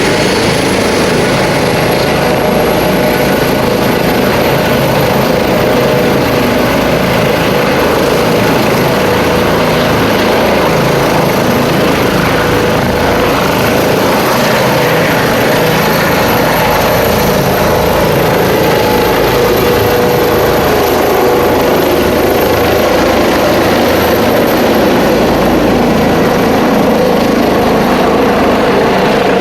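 Rescue helicopter's turbine engines and rotor running steadily and loudly, with a thin high turbine whine that slowly rises in pitch.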